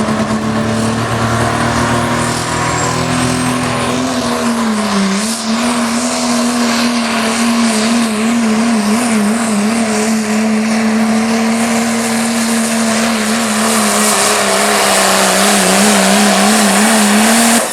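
Modified Dodge Ram diesel pulling truck at full throttle under load as it drags the sled down the track. Its engine note holds high and wavers in pitch several times, and a rushing hiss builds toward the end of the run.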